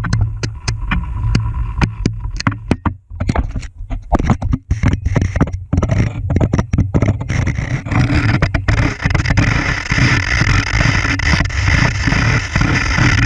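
Rapid irregular knocks and scrapes, typical of a camera rig bumping down a narrow drill hole. About eight seconds in they give way to a steady rushing noise.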